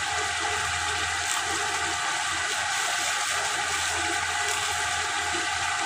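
Chicken curry sizzling steadily in the pot on the flame: a continuous, even hiss with no separate knocks or stirs.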